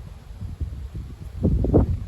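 Strong wind gusts buffeting the microphone, a low uneven rumble that builds to its loudest about a second and a half in. These are gusts ahead of a convective cold front.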